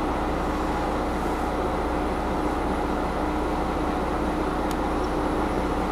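Steady running noise of a diesel railcar heard from inside the front of the car: an even hum with a held tone, and one faint click late on.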